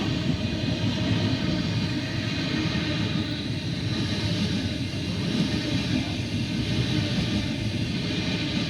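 Sydney Trains B-set (Waratah Series 2) electric train passing along the platform: a steady, loud rumble of wheels on rails.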